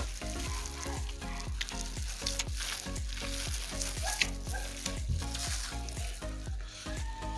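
Close-miked mukbang eating sounds: wet chewing and crackly crunching of food, with background music underneath.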